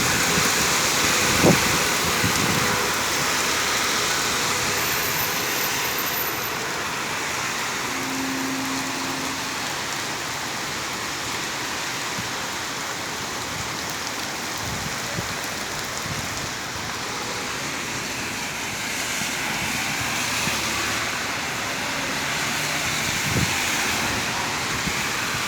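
Heavy rain pouring down steadily, a dense even hiss. A brief knock sounds about a second and a half in, and a fainter one near the end.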